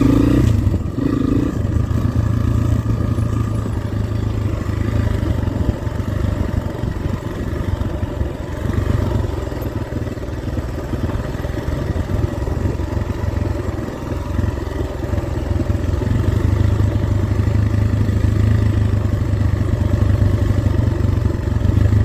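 Dirt bike engine running while the bike is ridden over rough terrain, the engine note rising and falling with the throttle.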